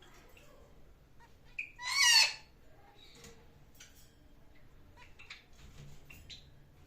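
A pet bird giving one loud, wavering call about two seconds in, just after a short note, with faint chirps and small clicks from the birds the rest of the time.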